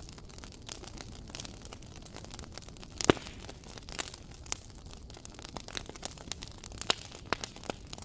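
Wood fire crackling in a fireplace: irregular sharp pops and snaps over a low steady hiss, with one louder pop about three seconds in.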